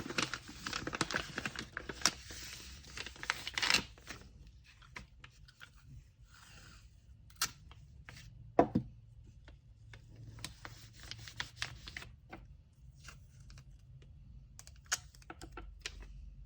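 Paper and packing materials being handled: a few seconds of dense rustling and crinkling, then scattered light taps and clicks, with one sharper knock about eight and a half seconds in.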